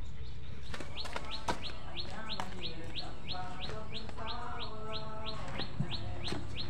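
A bird calling a fast, steady series of short rising chirps, about three a second, starting about a second in.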